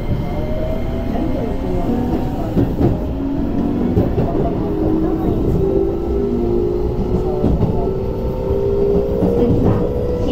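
Keio 8000 series train running, heard from inside: the Hitachi IGBT inverter and traction motors whine in a slowly rising pitch as the train gathers speed, over a steady rumble of wheels on rail with a few rail-joint clicks.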